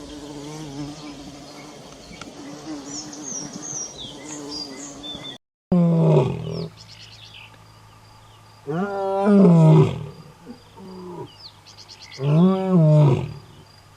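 Insects buzzing steadily with a few high bird chirps, then after a brief cut a large animal's loud drawn-out calls, three of them, each rising and falling in pitch, about three seconds apart.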